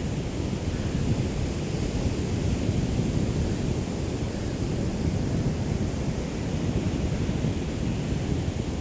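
Small waves of a calm sea lapping on the shore, heard as a steady wash, with a light breeze rumbling on the microphone.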